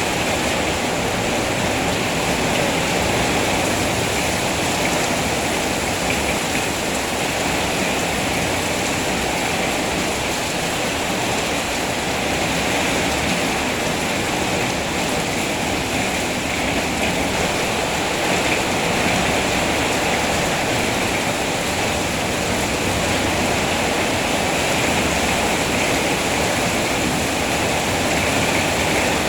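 Steady heavy rain, an even unbroken hiss of falling water with no distinct drops or events.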